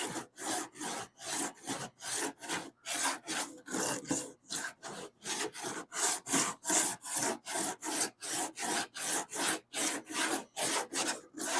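Hand sanding of half-cured Duraglass body filler on a car's wheel lip, in quick, even back-and-forth strokes, about three a second. The filler is still soft, at the stage where it can be shaped without tearing out.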